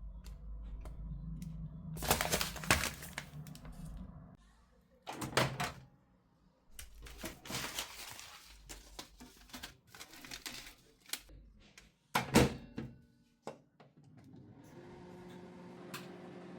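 Household handling noises: rustling and clattering with sharp clicks and knocks, the loudest bursts about two, five and twelve seconds in. Then a steady low appliance hum starts about two seconds before the end.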